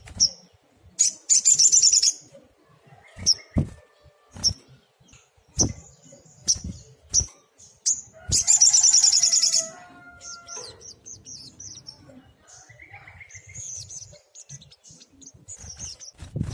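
Sunbird (sogok ontong) singing: sharp high chirps, with two loud, rapid trills, one about a second in and a longer one about eight seconds in. Several short knocks sound between them.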